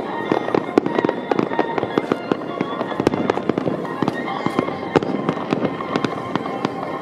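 Aerial fireworks bursting in rapid succession: a dense run of sharp bangs and crackles, several a second.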